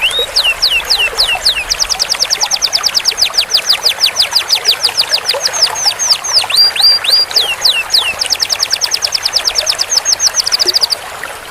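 Canary singing a long rolling song: fast runs of the same sweeping note repeated several times a second, switching to a new repeated note every second or two, breaking off near the end.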